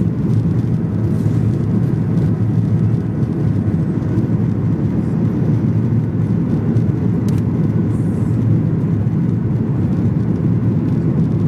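Steady low rumble of cabin noise inside a Boeing 737-800 in flight: the CFM56-7B engines and airflow over the fuselage, even and unchanging.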